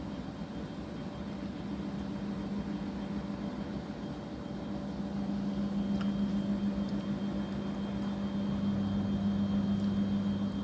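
Washing machine running, a steady motor hum that grows louder about halfway through, with a faint click about six seconds in.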